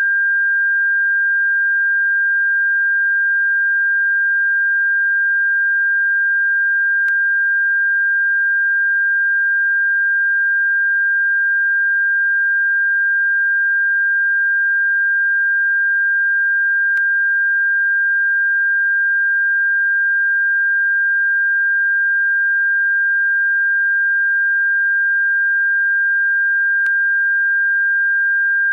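Steady electronic sine tone at a single high pitch of about 1.6 kHz, held without any change in pitch or loudness: a generated bird-repellent tone.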